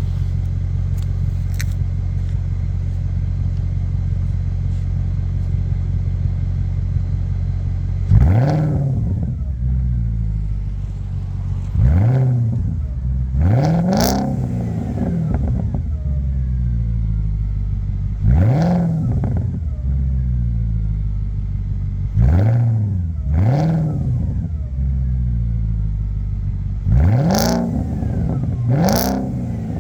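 2005 Audi A8 D3 4.2 V8 exhaust, with an X-pipe and Magnaflow mufflers, idling steadily, then revved in about eight quick blips starting about eight seconds in, each rising in pitch and dropping back to idle.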